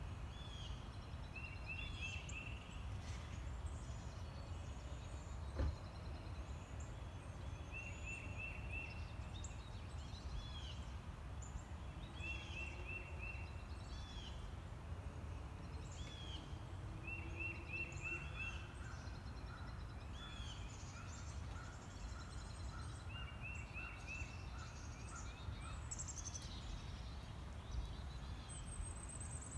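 Birds calling over a steady low rumble. One bird repeats a quick run of three to five notes every couple of seconds, with other calls scattered around it, and a single sharp knock about five and a half seconds in.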